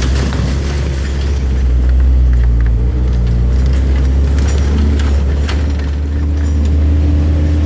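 An engine running steadily with a deep, continuous rumble, with a faint steady tone joining it about two-thirds of the way in.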